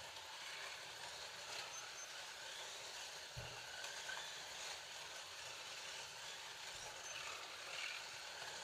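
Several Scalextric slot cars lapping the plastic track, a steady whir of small electric motors and wheels over the track. One low thump about three and a half seconds in.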